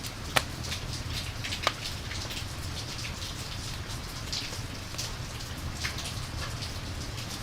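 Rain and campfire ambience: steady rain hiss, with two sharp crackling pops from the fire in the first two seconds.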